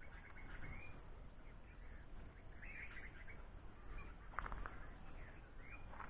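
Faint bird calls, short and scattered, with a quick run of several calls about four and a half seconds in.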